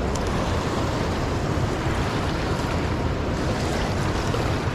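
A swollen, raging river rushing steadily close by, a loud, even wash of water noise.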